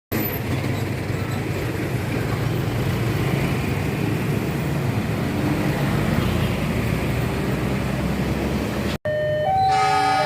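Steady rumble of road vehicles waiting and passing at a railway level crossing. About nine seconds in it cuts off abruptly, and an electronic level-crossing warning alarm starts, alternating between two pitches.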